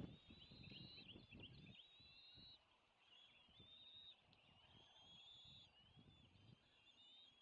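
Bald eagle calling: faint, high, thin whistled chattering in repeated phrases of a second or so, with brief gaps between them. Irregular low rumbling bumps sit underneath.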